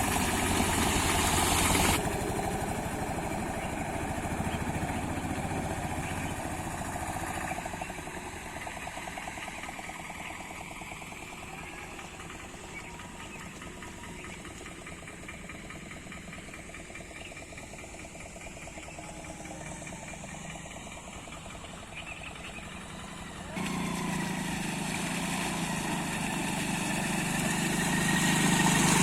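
A motor vehicle's engine running steadily. It gets quieter about eight seconds in, then comes back louder quite suddenly near the end.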